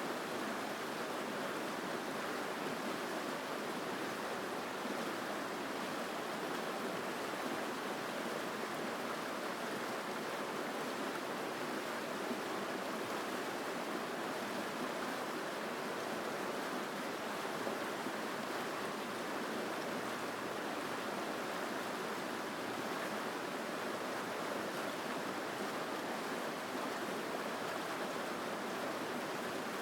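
Mountain stream flowing strongly and steadily: an even, unbroken wash of water noise with no separate splashes.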